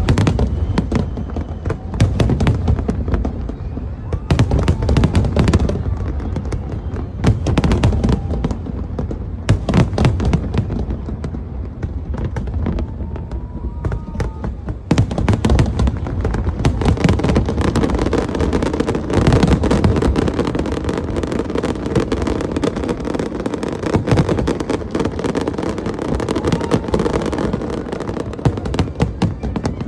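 Aerial fireworks bursting: repeated sharp bangs with crackle, becoming denser and more continuous from about halfway through.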